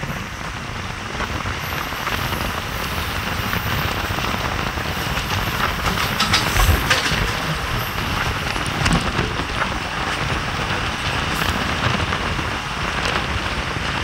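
MEMU electric train running along the track: a steady rush of wheel and wind noise with scattered clicks and knocks.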